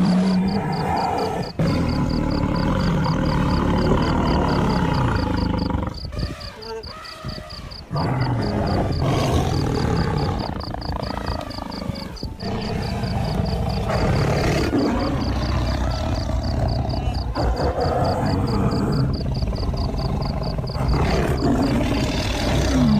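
A wildebeest herd calling with repeated deep grunts and moans. The calls drop away briefly about six seconds in, then pick up again.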